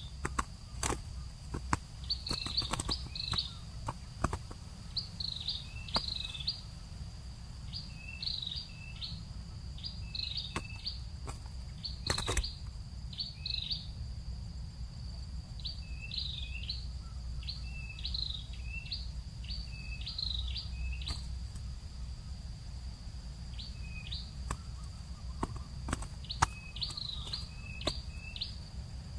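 A small bird chirping repeatedly in short clusters of quick high notes, over a steady high-pitched insect drone and a low rumble, with a few sharp clicks.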